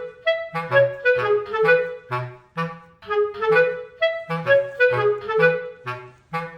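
Background music: a light tune on a clarinet-like woodwind in short bouncy notes over a plucked bass, in repeating phrases.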